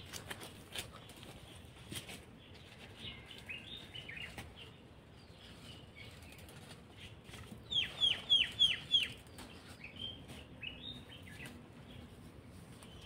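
A small bird calling: a quick run of five short, downward-sweeping chirps about eight seconds in, with scattered chirps before and after. A few light clicks near the start.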